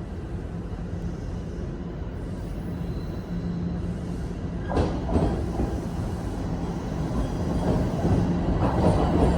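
TTC Line 1 subway train moving off along a station platform: a steady low rumble and hum that builds slowly, with short wheel clatters about five seconds in and again near the end.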